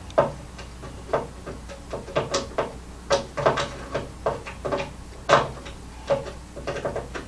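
An irregular run of sharp knocks and clatters of hard objects being handled and set down, about twenty in all. The loudest comes just after the start and another about five seconds in.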